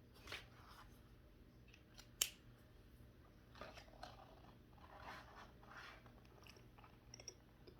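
Faint handling sounds while coloring with brush pens: soft scratchy strokes of a pen tip on paper, with a few short sharp clicks, the loudest about two seconds in.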